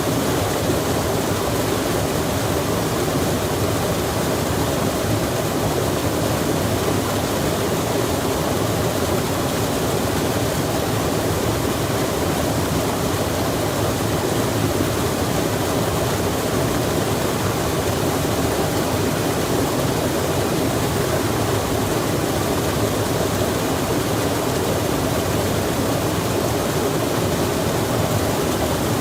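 A stream's water rushing with rain falling, a steady, even wash with no distinct drops or breaks.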